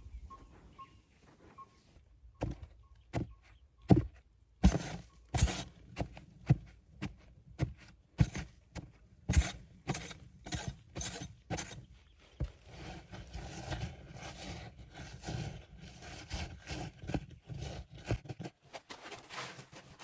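A run of irregular knocks and thuds, about one or two a second, starting about two seconds in. Scraping noise fills the gaps in the later part.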